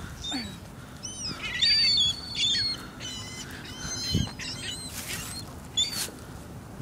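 A flock of birds squawking and chirping with repeated high calls, loudest about two seconds in. A dull thump comes a little after four seconds.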